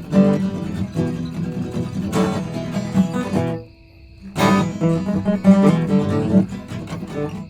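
Music: an acoustic guitar being strummed, dropping out briefly a little past halfway before coming back in.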